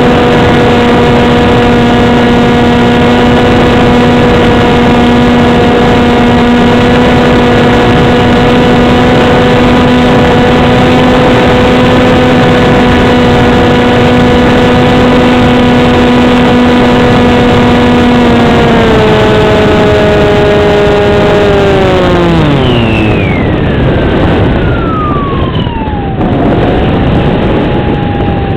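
RC foam flying wing's motor and propeller, heard from the onboard camera, whining at a steady pitch over heavy wind rush on the microphone. About two-thirds of the way in the pitch steps down, then slides steeply lower as the throttle comes back and the motor spins down.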